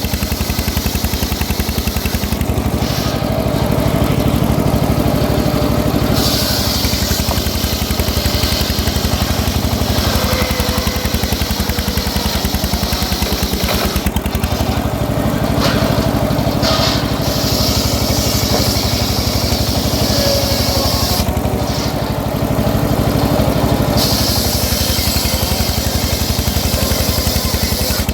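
Engine-driven homemade circular sawmill running steadily under a loud engine drone, with a higher hiss from the blade cutting teak that swells and fades in several stretches a few seconds long.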